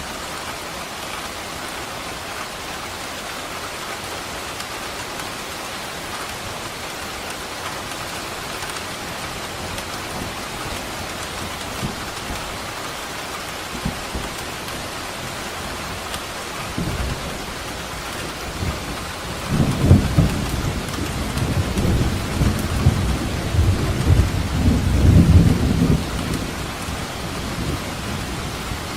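Steady heavy rain falling, with a long roll of thunder rumbling in after about two-thirds of the way through, loudest for several seconds before dying back into the rain.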